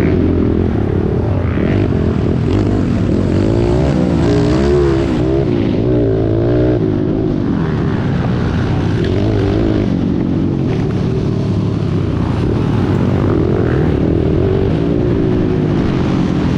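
Several dirt bike engines running and revving at once, their pitches rising and falling over one another.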